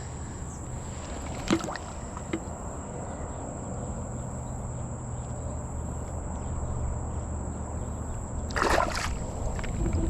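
Water sloshing and trickling around a kayak hull over a steady low hum, with a brief knock about a second and a half in and a short splash near the end.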